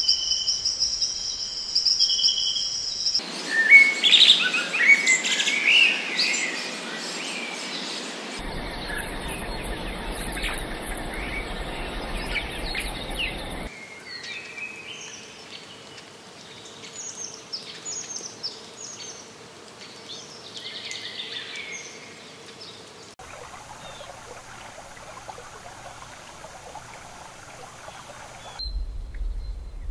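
Tropical forest ambience: a steady high insect trill for the first three seconds, then many birds chirping and calling in quick, sweeping notes, the mix of calls changing every few seconds.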